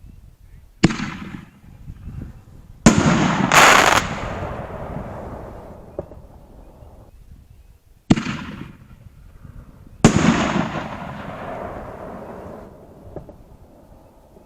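Dominator Colors Galore 5-inch canister shells firing: about five sharp bangs from the shells launching from mortars and breaking, each followed by a fading rush of noise.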